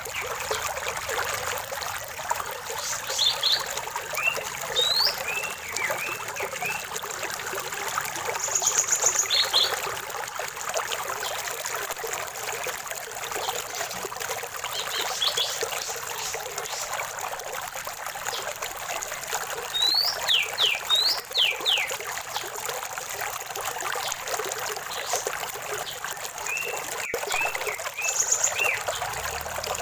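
A small stream trickling and splashing steadily, with birds calling over it in short bursts of chirps and quick whistled sweeps every few seconds.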